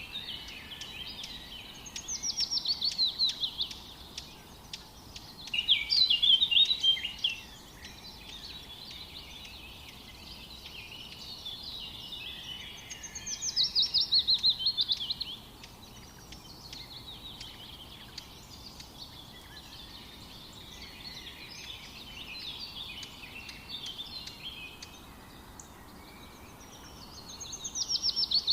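Songbirds singing: a loud, quick song of notes falling in pitch comes back several times, about every seven to ten seconds, over quieter chattering calls from other birds.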